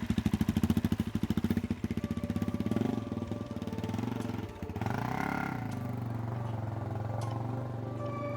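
Suzuki DR-Z400E's single-cylinder four-stroke engine running just after starting, with loud, lumpy firing pulses at first. About five seconds in there is a short rev that rises and falls in pitch, and then it settles into a steadier idle.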